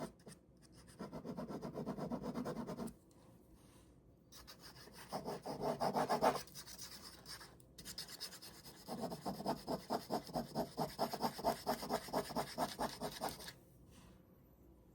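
Ballpoint pen scratching on paper in fast back-and-forth shading strokes, in three spells: a couple of seconds, a short burst, then a longer run of several seconds, with brief pauses between.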